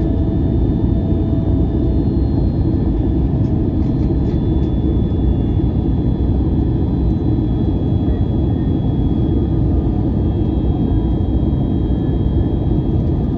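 Steady drone inside the cabin of an Airbus A321-200 in flight: jet engine and airflow noise, heavy in the low end, with a few faint ticks about four seconds in.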